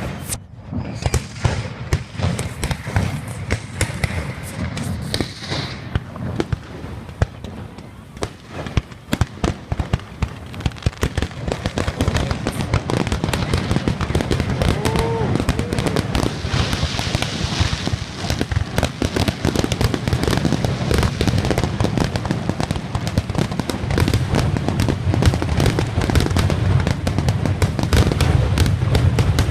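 Fireworks going off in a dense barrage of bangs and crackles, growing thicker and louder from about twelve seconds in until the bursts run almost together.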